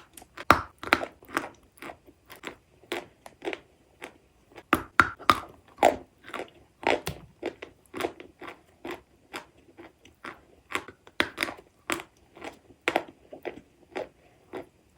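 Close-miked chewing of hard, crunchy edible chalk: a steady run of sharp crunches, about two a second, with a few louder bites among them.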